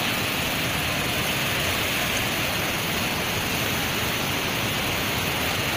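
Steady rush of floodwater pouring through dam shutters opened fully, about 36 inches.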